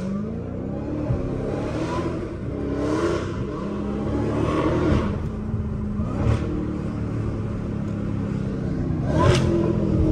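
Car engine heard from inside the cabin, revving up and pulling through the gears several times in the first five seconds, then settling into a steady drone. Two short sharp noises break in, about six and nine seconds in.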